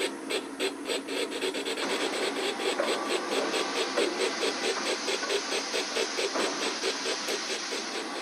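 Model steam locomotive's sound system playing a steady chuffing exhaust beat, about four to five chuffs a second, as the locomotive moves. Steam hiss thickens under the chuffs from about two seconds in.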